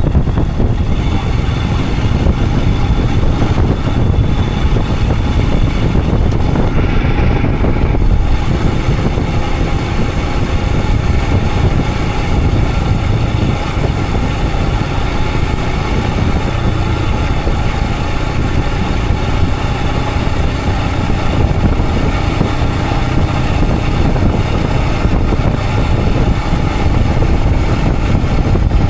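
Royal Enfield Himalayan 411's 411 cc single-cylinder engine running steadily under way, with heavy wind rumble on the microphone.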